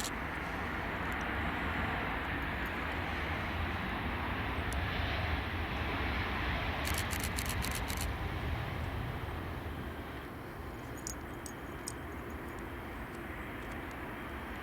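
Jet aircraft engines heard as a steady rushing noise that swells and then eases off after about ten seconds, as a plane passes. A quick run of sharp clicks sounds a little past the middle.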